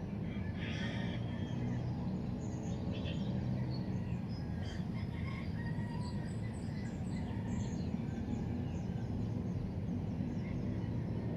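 Birds chirping now and then over a steady low background rumble.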